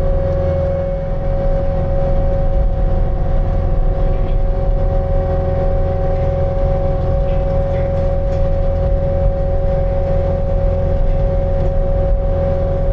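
Construction machine's engine running steadily under load, with a steady high whine over a low rumble.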